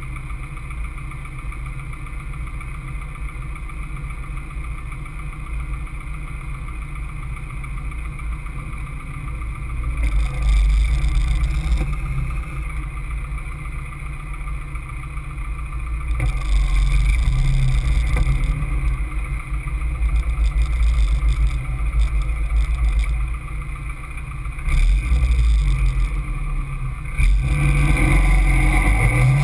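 Caterham Seven's engine running at low revs for about the first ten seconds, then opening up in several surges of acceleration, loudest from near the end, heard from inside the open cockpit.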